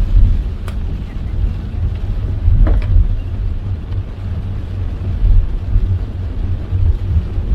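Car driving in heavy rain: a steady, uneven low road rumble under a hiss of rain, with two brief ticks in the first few seconds.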